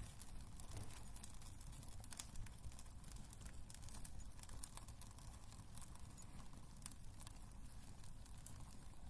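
Wood fire crackling in a fireplace: irregular small pops and snaps over a low, steady rumble of burning.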